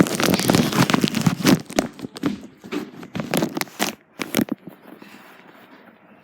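Plastic bag crinkling and rustling against the phone's microphone as the bagged phone is handled. There is a loud, dense crackle for about four and a half seconds, then a fainter rustle.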